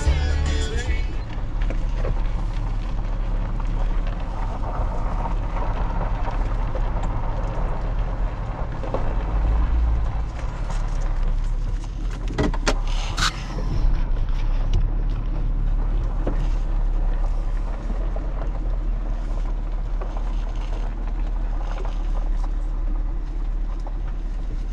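A vehicle's engine running, heard from inside the cabin as a steady low hum, with two sharp clicks about halfway through.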